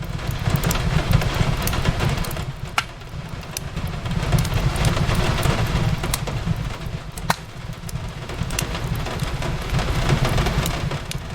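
Fireplace crackling with scattered sharp pops, two louder ones about three and seven seconds in, over steady rain whose hiss swells and eases every few seconds, with a low rumble beneath.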